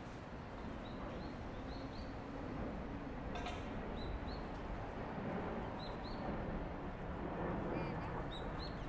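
Small birds chirping, short high calls repeated every second or so, over a steady rushing noise of the bicycle ride.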